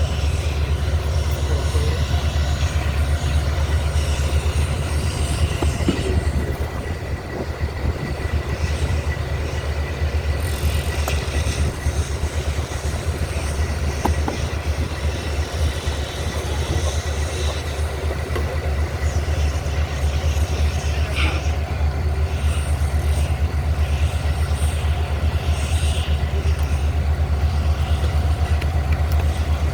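A machine running steadily, with a deep even drone and a faint high whine held throughout.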